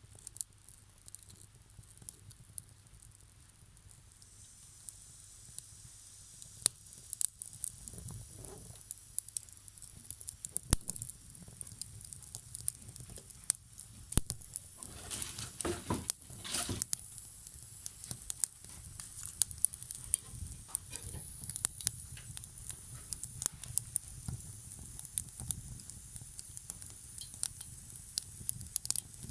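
Wood fire burning, crackling with irregular sharp pops over a steady faint hiss, with a brief louder rushing spell about halfway through.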